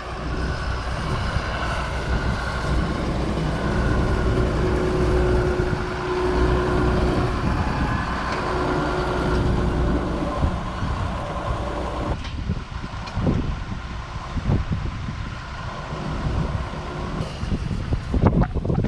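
Engine of a heavy farm vehicle running steadily, quieter after about twelve seconds, with a few short knocks late on.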